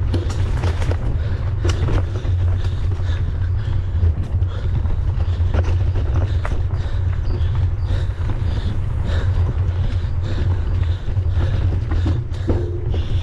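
Wind buffeting the microphone of a camera riding along on a mountain bike. Frequent short clicks and knocks from the bike rattling over rough trail are scattered through it.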